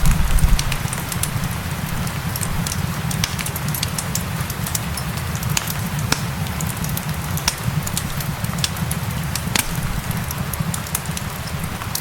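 A wood fire crackling with irregular sharp pops over steady rain, with a low, steady rumble underneath.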